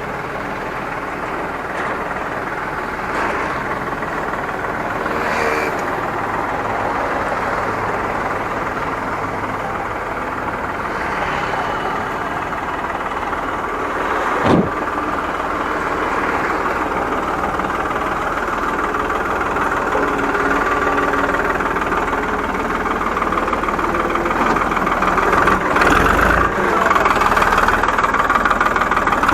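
Tractor engine running steadily, with one sharp knock about halfway through and growing louder near the end.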